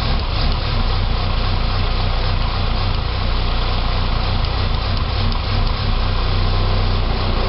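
Saab 9-3 2.0T turbocharged four-cylinder engine idling roughly, its low note pulsing unevenly at a steady speed. The rough idle follows an engine rebuild, and the owner suspects a vacuum problem.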